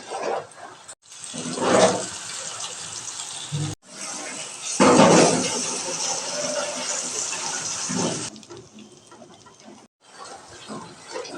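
Water running and splashing, in a few short stretches with abrupt cuts between them.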